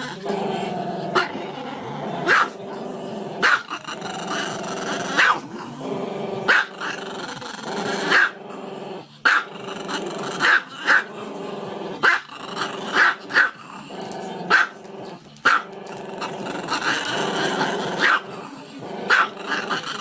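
A dog growling almost continuously, broken by sharp barks roughly once a second.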